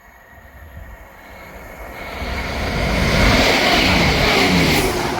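ScotRail Class 170 Turbostar diesel multiple unit passing through the station at speed without stopping. The rush of wheels on rail and the rumble of its underfloor engines build over about two seconds to a loud peak, then begin to fade near the end.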